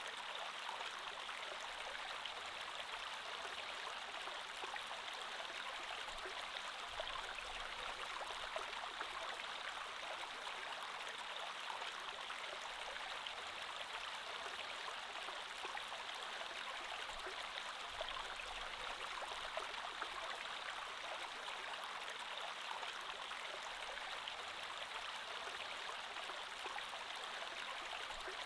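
Creek water flowing steadily over rocks, a continuous rushing with small splashes and trickles.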